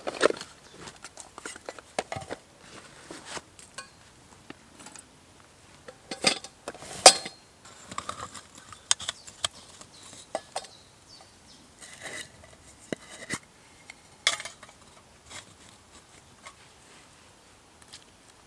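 Hard objects being handled: a series of irregular clinks and knocks, the loudest about seven seconds in, with a quieter stretch near the end.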